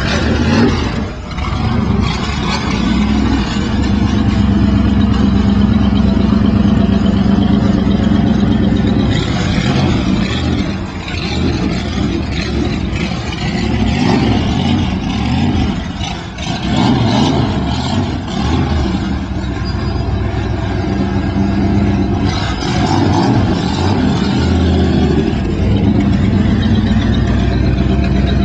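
Engine of a modified dirt-track race car converted for the street, running loud with a steady pitched note, its pitch and loudness rising and falling several times as the throttle is opened.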